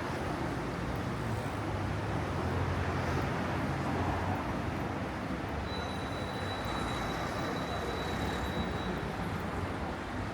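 City street traffic with vehicles passing, a low engine hum in the first half and a thin high whine held for about three seconds in the middle.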